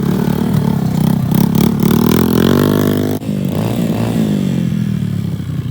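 Motocross dirt bike engine revving, its pitch climbing for about three seconds, then dropping abruptly as the throttle closes and winding down.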